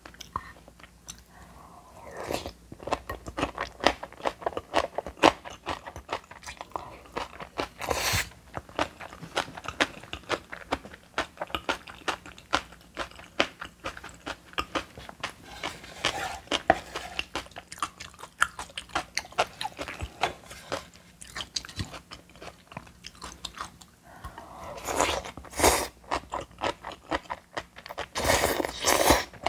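A person chewing crunchy food, a dense run of small crisp crunches and mouth sounds, with a few louder bursts about eight seconds in and again near the end.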